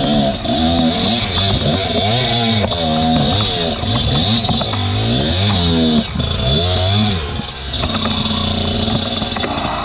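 Off-road enduro motorcycle engine revving up and down over and over, its pitch rising and falling every second or so, with some clatter.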